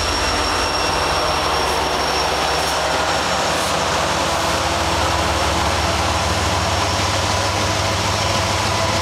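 Diesel-hauled freight train passing, a steady rumble of locomotive engines and rolling cars. A high whine fades out over the first few seconds.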